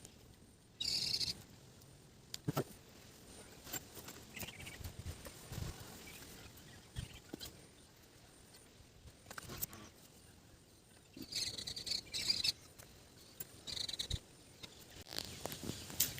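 Short, high-pitched animal calls come in a few brief bursts, about a second in and again near the end, over faint outdoor background with scattered small clicks.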